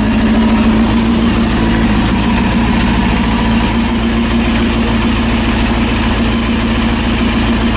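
Freshly rebuilt Honda CB400 four-cylinder engine running steadily at idle, free of any bad mechanical noise. The exhaust note is a little higher and bigger than a stock muffler's.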